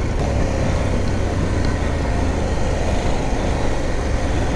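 Adventure motorcycle engine running steadily under way on a rough off-road lane, with a steady rumble of wind and road noise over it.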